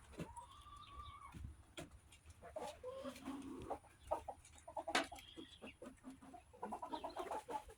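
Backyard hens clucking softly, with one drawn-out call about a second long near the start and short clucks through the rest, among scattered sharp ticks.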